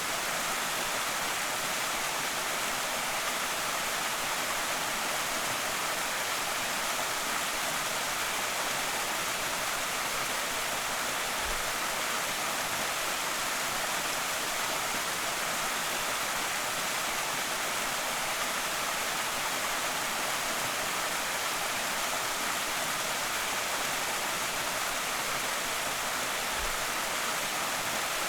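Small creek waterfall: a steady, even rush of falling water.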